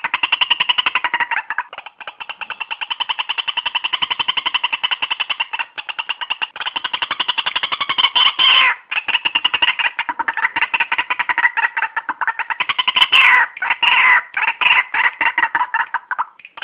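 White-breasted waterhen calling: a long run of rapid, evenly repeated notes, broken by a few brief pauses.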